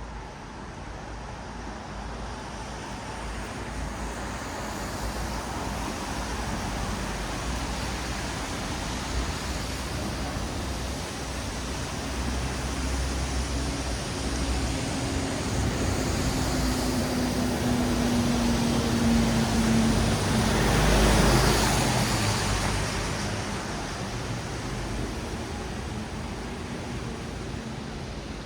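Road traffic on a wet city street: a steady hiss of tyres on wet pavement that swells as a vehicle passes close about three-quarters of the way through, its low engine hum dropping slightly in pitch as it goes by, then fades again.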